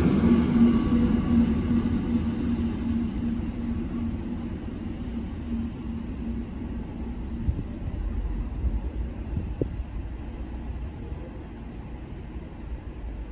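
SNCB electric passenger train running past and drawing away. Its rumble and a steady hum are loudest at first and fade over the first several seconds, leaving a low rumble.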